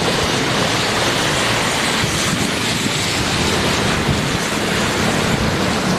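Steady, loud rushing of water on a flooded road, with a low vehicle engine hum underneath.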